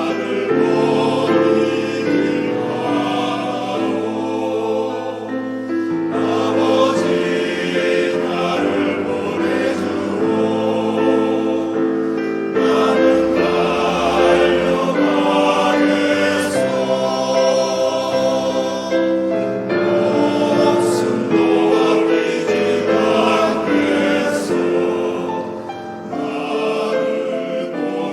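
Background music: a church choir singing a sacred piece in several voice parts, with long held chords.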